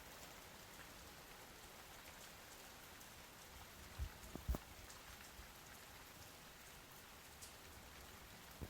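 Faint, steady patter of light rain, with two dull low thumps about half a second apart near the middle.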